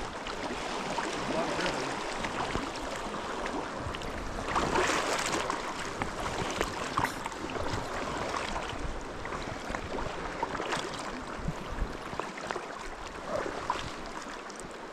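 River water running, a steady rushing with uneven splashy swells, louder for a moment about five seconds in.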